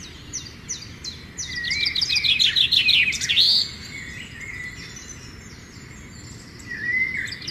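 Birds chirping and calling: a fast run of loud chirps and whistled notes in the first half, softer calls through the middle, and another burst of calls near the end.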